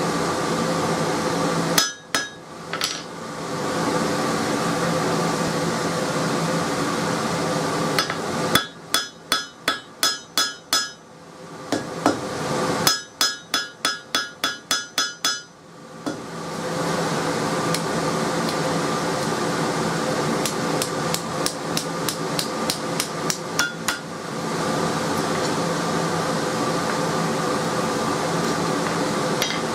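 Hand hammer striking hot spring steel on an anvil in quick runs of blows, about three to four a second, with pauses between runs and lighter taps near the end, drawing out the end of the truck coil spring bar.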